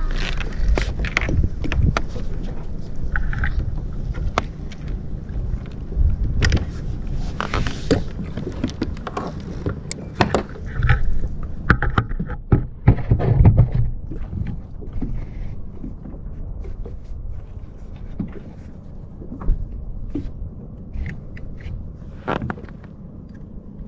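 Irregular knocks, thuds and scrapes on a fishing kayak over a steady low rumble, busier in the first half and a little quieter after.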